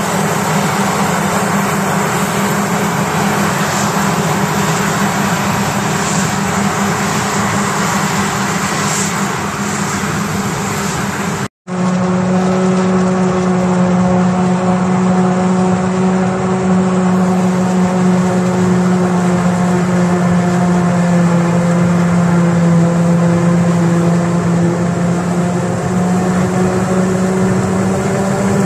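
Heavy diesel farm machinery running steadily under load during silage harvesting, a steady engine drone; it cuts out abruptly about a third of the way in and resumes with a stronger, steadier hum that sags a little in pitch later on.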